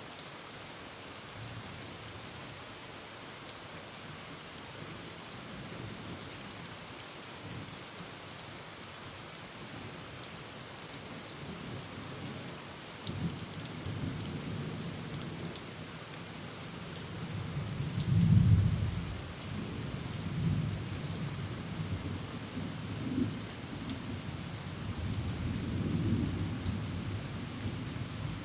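Heavy rain drumming on a tin roof as a steady hiss, with rolls of thunder from about halfway through. The loudest roll comes about two-thirds of the way in, and several smaller rolls follow.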